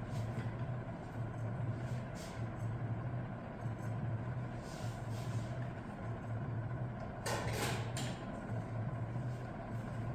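A steady low hum, with a few short scrapes and clinks of metal parts being handled during a transmission teardown; the longest scrape comes about seven seconds in.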